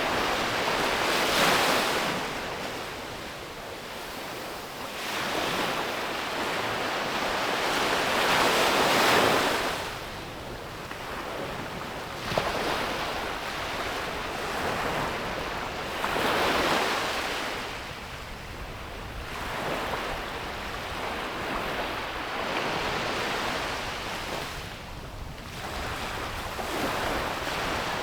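Ocean waves breaking and washing up on a beach, each surge rising and falling every few seconds, with some wind on the microphone.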